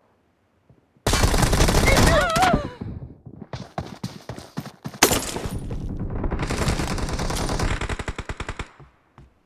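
Video-game automatic gunfire: a long burst of rapid shots starting about a second in, a few scattered shots, then a second long burst from about five seconds in that stops shortly before the end.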